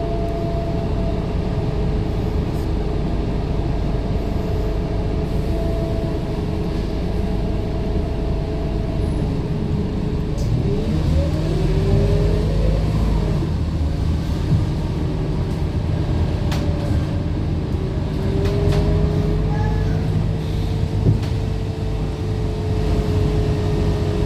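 Scania K230UB city bus's diesel engine and drivetrain heard while riding aboard, running with a steady whine and low rumble. About ten seconds in, the pitch sweeps upward as the bus pulls away and accelerates, then settles into a steady drone.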